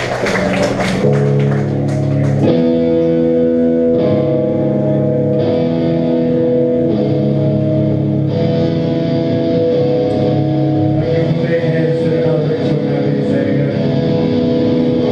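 Electric guitar playing held, ringing chords that change about every second and a half, with no drums behind it.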